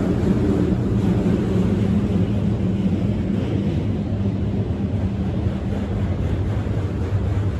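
Freight train of auto rack cars rolling past: a steady rumble with a low hum and no breaks.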